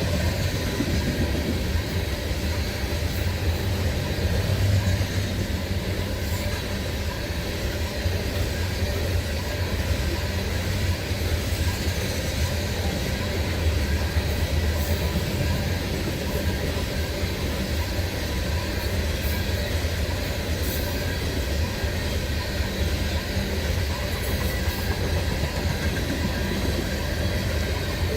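BNSF coal train rolling past, a steady noise of wheels on the rails.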